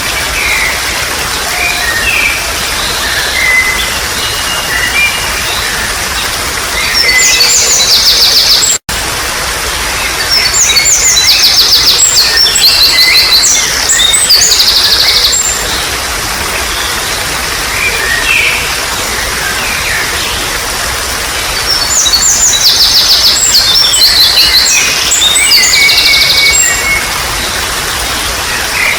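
Trickling water with wild birds calling over it: scattered short chirps and whistles, and loud bouts of fast, repeated chattering trills a quarter of the way in, through the middle, and again past three quarters. The sound cuts out for an instant about nine seconds in.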